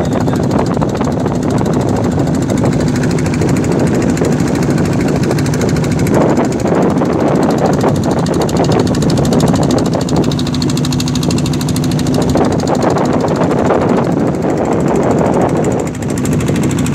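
Motor boat's engine running steadily under way: a loud, even drone with a rapid, regular chug.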